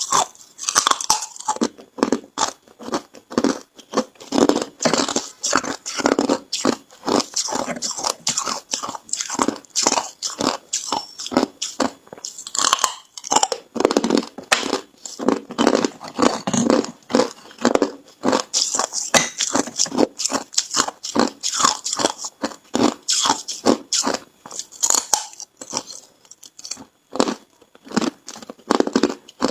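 Ice being bitten and chewed: rapid, irregular crunching, several crunches a second, without a break.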